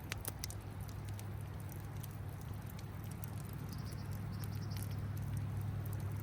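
Wood campfire crackling, with scattered sharp pops over a steady low rumble of a flowing river.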